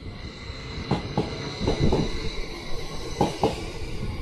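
Northern electric multiple unit passing along the platform at speed, its wheels clicking over rail joints in pairs, with a steady high whine.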